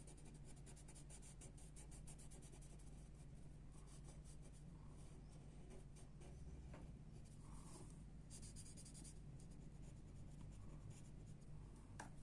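Graphite pencil scratching and shading on paper, faint, in runs of quick short strokes.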